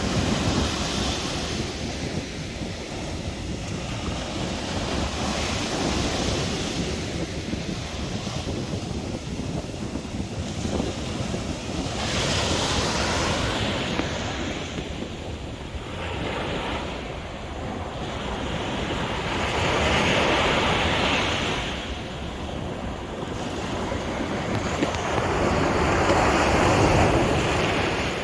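Sea waves washing in, the surf swelling and fading every several seconds, with wind buffeting the microphone.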